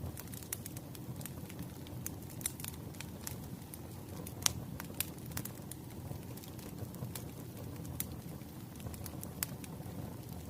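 Wood fire burning with a steady low rumble and irregular crackles and pops of the logs, one sharp pop standing out about four and a half seconds in.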